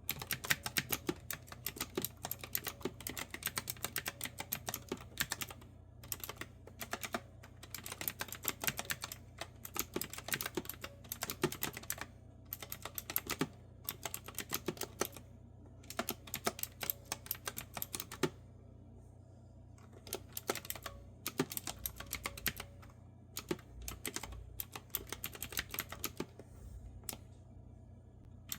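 Typing on a clicky retro-style keyboard with round keycaps: fast runs of crisp keystrokes broken by short pauses, over a faint steady low hum.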